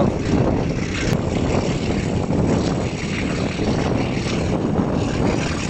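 Passenger train running along the line, heard from an open coach window: a steady rumble of the moving train mixed with rushing air.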